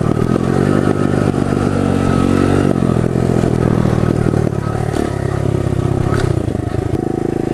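Pit bike engine running under a rider, its pitch climbing and falling back a few times as the throttle is worked.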